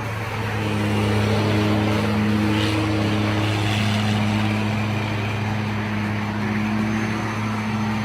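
Truck engine running with a steady low drone that holds one pitch throughout.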